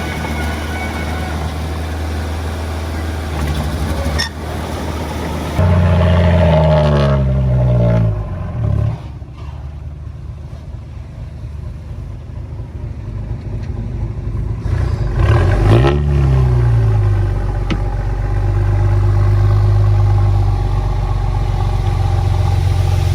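Heavy-equipment diesel engine running under varying load: it revs up about five seconds in, winds down to a lower, quieter run for several seconds, then revs back up and holds steady near the end.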